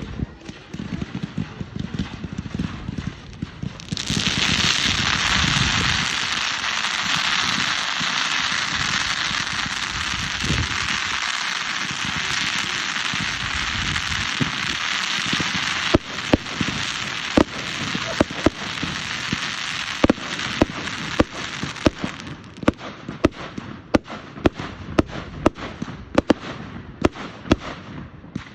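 Fireworks going off: a loud, steady fizzing hiss starts about four seconds in and runs for about twelve seconds. Then comes a string of sharp cracks and bangs, roughly two a second, that carries on to the end.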